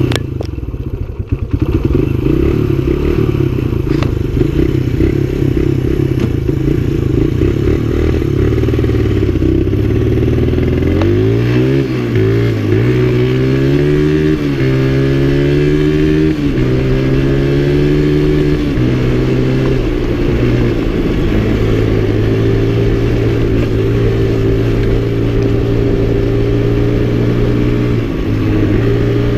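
A 1984 Suzuki DR100's small single-cylinder four-stroke engine under way on a gravel road. Its pitch climbs and drops back several times through the middle as it shifts up through the gears, then holds steady at cruising speed, with a brief dip near the end.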